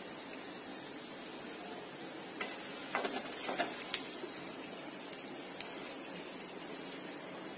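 Shredded potato deep-frying in hot oil, a steady sizzle, with a few sharp clicks and scrapes of a slotted spoon against the pan between about two and six seconds in as the crisp strands are lifted out.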